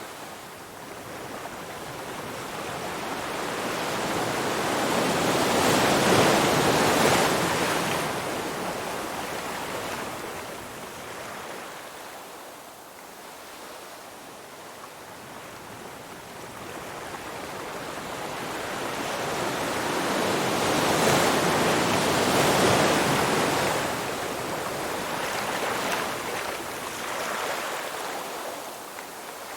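Ocean waves surging and washing in: two slow swells, each building over several seconds to a peak, about six seconds in and again about twenty-two seconds in, then ebbing away.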